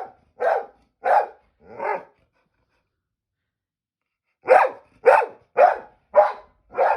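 Springer spaniel barking repeatedly at birds, about two sharp barks a second: four barks, a pause of a couple of seconds, then five more.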